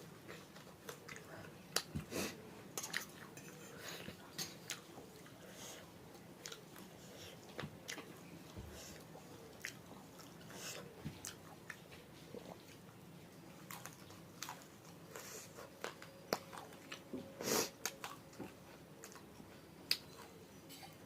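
A person chewing and biting food close to the microphone: irregular wet mouth clicks and smacks, with one louder smack late on.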